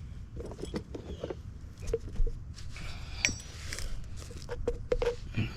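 Small metal plumbing fittings and tools clink and knock as they are handled, in a run of irregular taps with a few short ringing notes.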